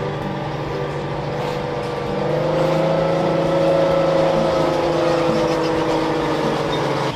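A motor running with a steady droning hum that grows louder and rises slightly in pitch about two seconds in, then eases back down, and cuts off suddenly at the end.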